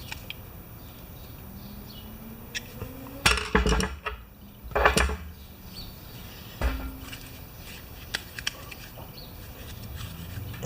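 Scattered clinks and knocks of tools and hard parts being handled, with a few louder knocks about three and a half, five and nearly seven seconds in.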